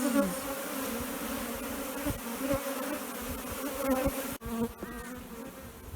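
Many honeybees buzzing around an open hive, a steady hum.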